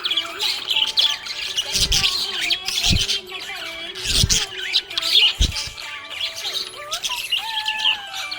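Budgerigar chattering in a continuous warble of quick chirps, with some lower gliding notes. Four sharp, louder sounds stand out about two, three, four and five and a half seconds in.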